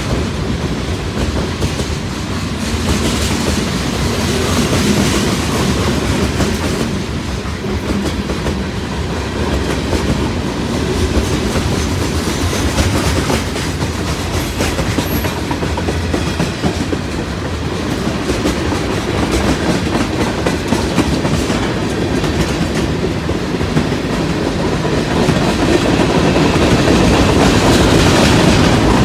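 BNSF manifest freight train's cars rolling past close by: a steady rumble of steel wheels on rail with repeated clicks over the rail joints, swelling a little near the end.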